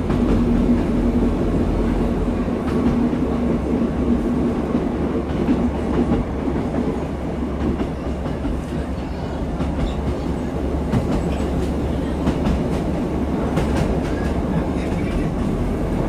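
A diesel train running along the line, heard from inside the carriage: a steady low rumble with wheel clickety-clack. An engine hum is clear for the first few seconds and then fades, and short clicks come from the wheels over the rail joints later on.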